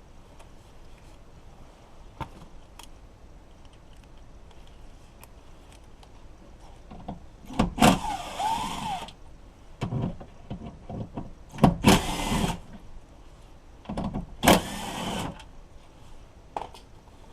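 Light clicks, then three separate bursts of mechanical noise of about a second each from work on a 2017 Nissan Sentra's front door during removal of the door lock actuator.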